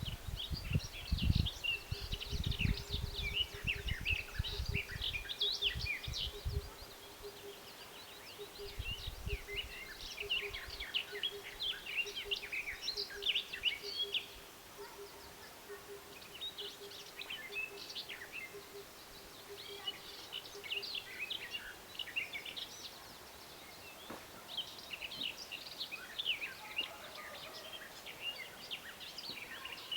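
A small songbird singing in repeated bouts of quick, varied high chirping phrases with short pauses between them. Low rumbling noise comes and goes during the first ten seconds or so, and a faint steady hum stops about two-thirds of the way through.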